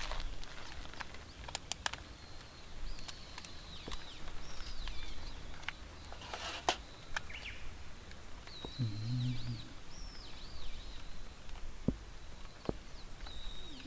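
Birds calling in short swooping whistles, over scattered clicks and knocks. A brief low tone sounds about nine seconds in.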